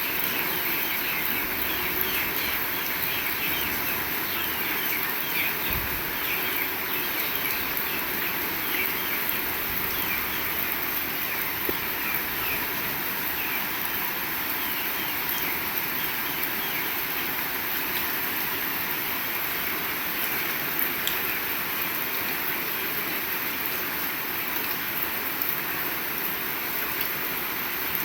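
Heavy rain falling steadily with an even hiss, and short high chirps scattered through the first half.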